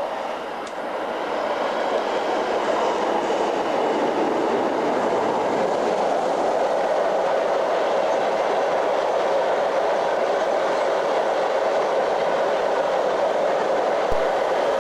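Freight train passing close by, its wagons rolling over the rails in a loud, steady rush that builds over the first couple of seconds.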